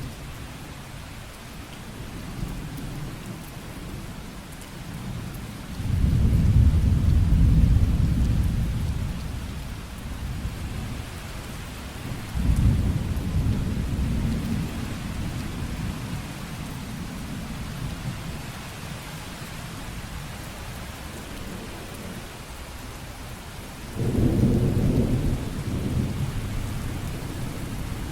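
Steady rain falling, with three low rumbles of thunder that each start suddenly and die away over a few seconds.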